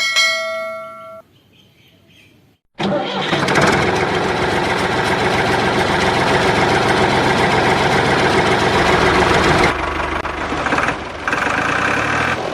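A short bright chime, then after a brief pause an engine starts up and runs loud and steady, easing slightly in level near the end before cutting off.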